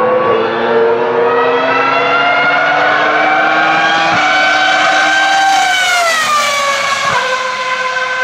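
Ferrari track car's high-revving racing engine, its note climbing steadily under acceleration with a brief break about four seconds in, like a gear change. The pitch then falls over a couple of seconds, breaks sharply once more and settles on a steady note.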